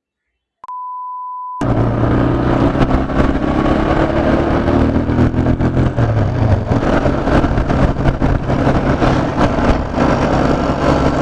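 A steady high beep of about a second, then from about a second and a half in, loud wind noise rushing over a helmet-mounted microphone on top of a motorcycle engine running at speed. Bubble wrap stuffed into the helmet's open gap is not keeping the wind off the microphone.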